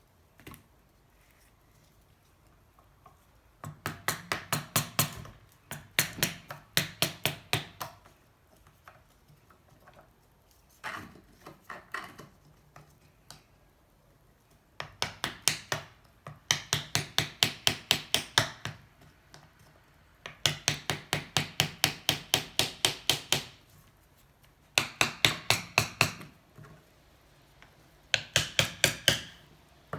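Quick runs of hammer taps, about seven a second, in bursts of one to three seconds, on the stuck cylinder of a Honda C70 engine to work it free of the crankcase.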